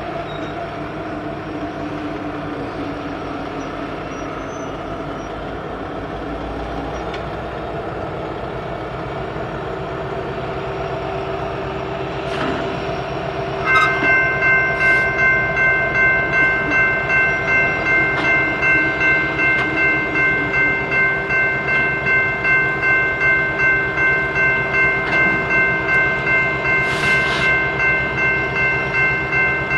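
Diesel locomotive rumble, joined about halfway through by a railroad grade-crossing bell that starts up and rings steadily at about one and a half strokes a second.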